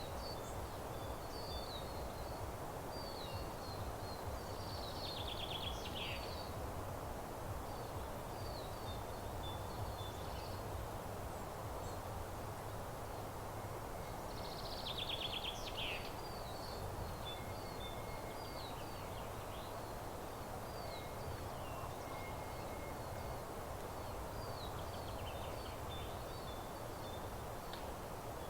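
Small songbirds singing in a meadow, with short high chirps throughout. A louder song phrase comes three times, each sliding down into a quick trill, over a steady rushing background noise.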